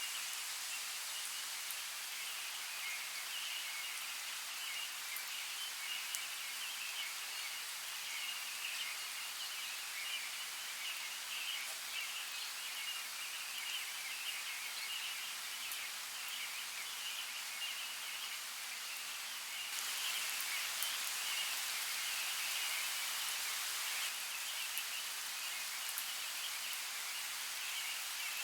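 Steady outdoor water noise, a continuous hiss with scattered small ticks of droplets. It grows slightly louder and busier about two-thirds of the way through.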